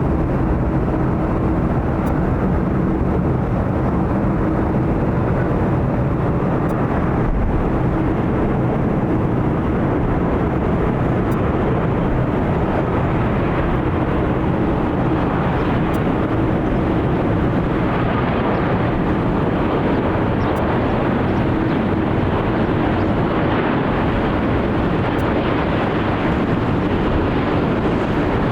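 Boeing 787 Dreamliner jet engines running as the airliner passes, a steady loud rush of jet noise with a low hum, growing brighter in its upper range in the second half.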